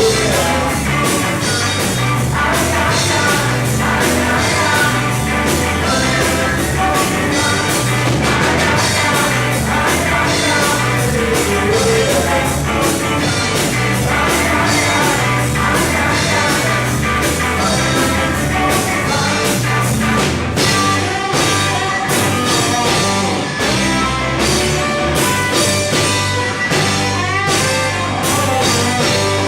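Rock band playing, with electric guitars, bass guitar and a drum kit keeping a steady beat, and a singing voice over them.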